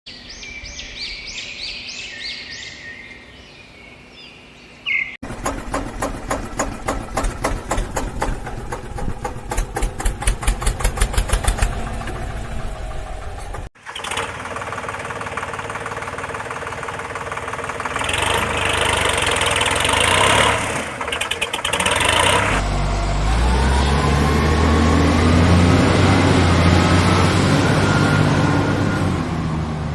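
Engine sounds in several cut segments: a fast, even chugging that speeds up, then a noisier running stretch, then an engine revving with rising pitch near the end. A short high chirping sound comes first.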